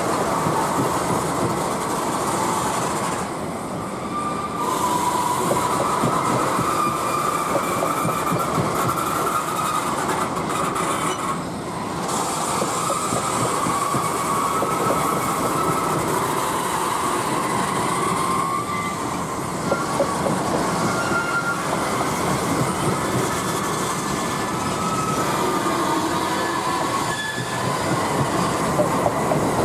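Freight train wagons rolling past at steady speed: a continuous rumble of wheels on rail, with high wavering squeals from the wheels coming and going throughout.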